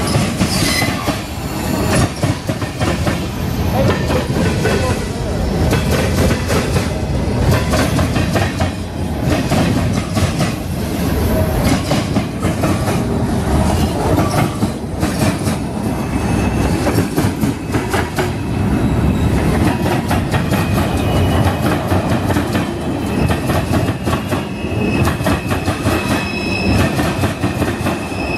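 Freight cars of a CSX mixed freight train rolling past close by, steel wheels clattering steadily over the rails and the crossing diamond. A thin, high wheel squeal comes in during the last third.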